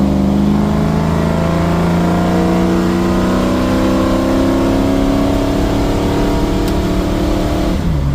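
1972 Mustang Mach 1's V8, breathing through a single 3-inch exhaust with a Black Widow Race Venom muffler, held at raised revs that creep slightly higher for several seconds, then dropping back toward idle near the end.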